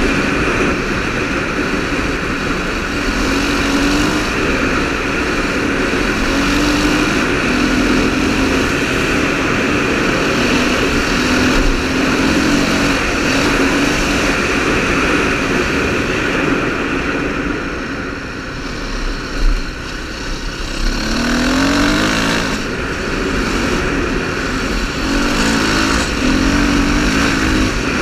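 KTM 530 rally motorcycle's single-cylinder four-stroke engine running under way, its pitch shifting with the throttle over a steady rush of wind. About two-thirds of the way in it eases off briefly, then revs up again.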